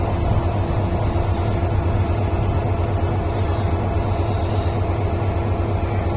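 Express passenger train rolling through a station, a steady loud rumble with a low hum.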